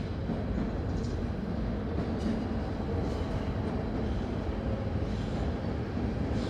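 A train rolling along the tracks: a steady low rumble with a few faint clicks now and then.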